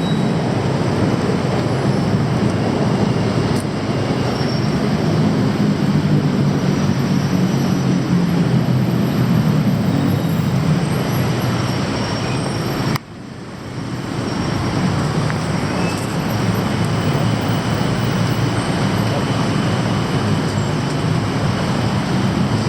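Loud, steady rumble of a passing train with city traffic. The sound drops abruptly about halfway through, then builds back up.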